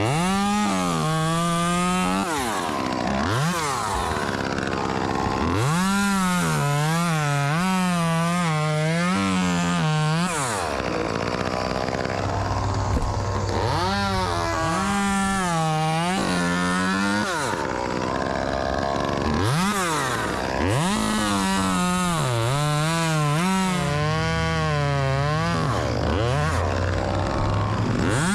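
Chainsaw revved up and cutting wood in several long passes, its pitch wavering under load, falling back to idle between cuts with a quick rev or two. A lower steady engine hum runs underneath.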